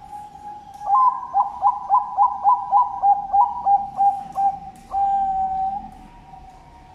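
Zebra dove (Bangkok-bred perkutut) cooing. A held opening note leads into a quick run of about a dozen short coos, roughly four a second, and ends in one long drawn-out note about five seconds in.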